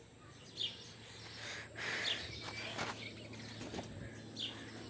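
Short, high bird chirps, a few of them one to two seconds apart, over faint outdoor background noise, with a brief rustle about two seconds in.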